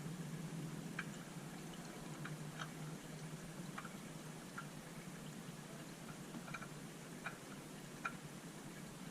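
Engine oil dripping into a drain pan: faint, irregularly spaced plinks, roughly one every second, over a low steady hum.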